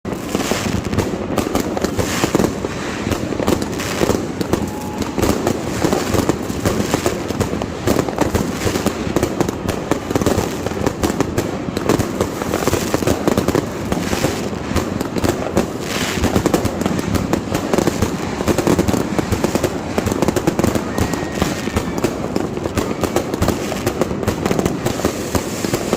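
Many fireworks going off at once in a continuous barrage of overlapping bangs and crackling, with no pauses.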